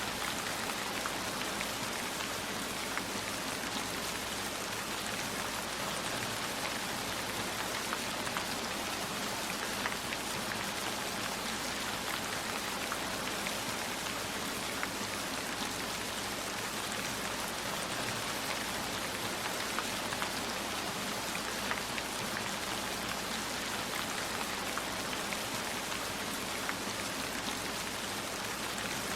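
Steady rain falling, with a constant hiss and scattered light ticks of drops hitting a surface.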